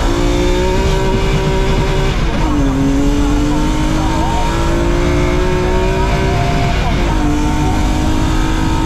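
BMW E36 rally car's engine heard from inside the cabin, accelerating hard through the gears: the revs climb, drop at an upshift about two seconds in, climb steadily again, and drop at a second upshift about seven seconds in.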